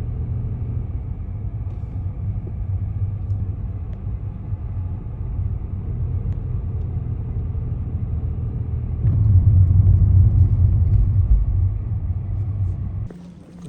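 Steady low rumble of a motor vehicle, swelling louder about nine seconds in, then cutting off sharply near the end.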